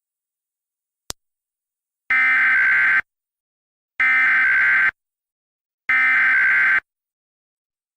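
Emergency Alert System SAME header: three bursts of digital data tones, each just under a second long, about a second apart. They are valid encoding tones, able to trigger real EAS receivers. A short click comes about a second in, before the first burst.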